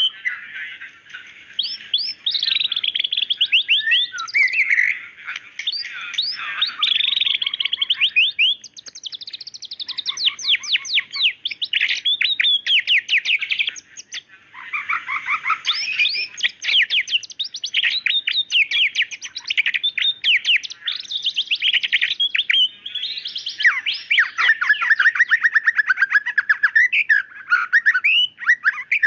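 White-rumped shama singing continuously: a fast, varied song of rapid trills and sharp repeated notes, broken by a couple of short pauses.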